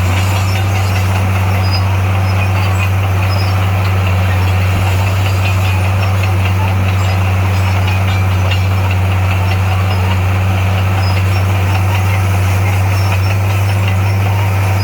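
Heavy diesel engine of construction equipment running at a steady speed, a constant low hum with no change in revs.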